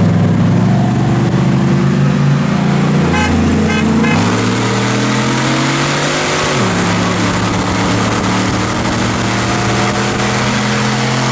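Pontiac Grand Prix GXP's 5.3-litre LS4 V8 with a muffler delete, loud and open-sounding, pulling hard under acceleration. The engine note climbs, jumps up about four seconds in, then drops sharply about two-thirds of the way through as the transmission shifts up, and holds steady after.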